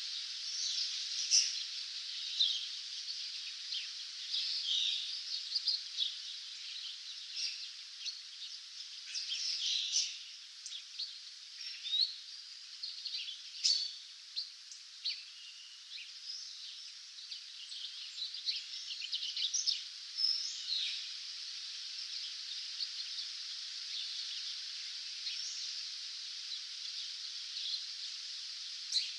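Dawn chorus of many songbirds chirping and trilling over a steady hiss, busiest in the first twenty seconds and thinning out after that.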